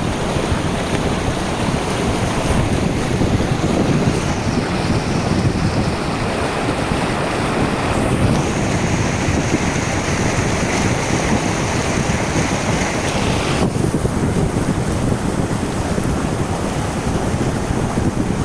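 Steady rushing and sloshing of floodwater against a car as it drives through a flooded street, with wind rumbling on the microphone. A faint high hiss comes in about eight seconds in and stops about fourteen seconds in.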